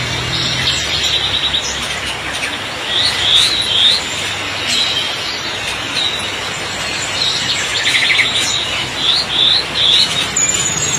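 Songbirds chirping in quick runs of short rising notes, in clusters about three seconds in and again around eight to ten seconds. Under them runs a steady hiss of heavy rain.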